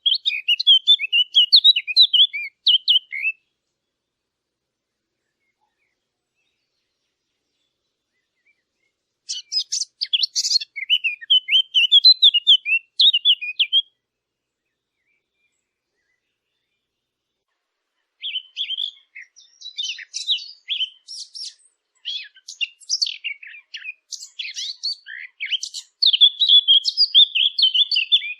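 Songbird chirping in quick, high, trilling phrases, in three bouts with silent pauses between; the last bout, starting about two-thirds of the way in, is the longest and busiest.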